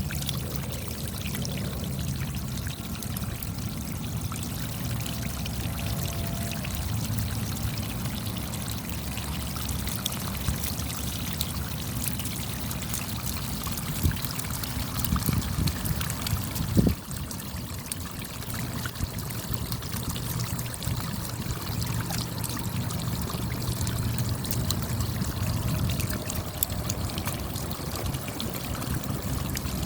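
Steady rain: a continuous wash of running water dotted with many small drop ticks, over a low rumble. One sharper knock a little past halfway.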